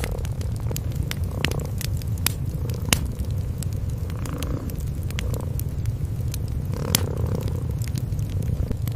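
Cats purring in a steady low rumble, with a wood fire crackling over it in irregular sharp pops, a few louder ones about 3 and 7 seconds in.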